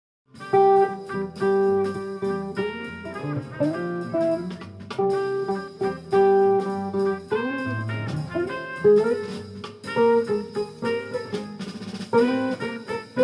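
A jazz group playing, with guitar to the fore over drums; the music starts just after the beginning.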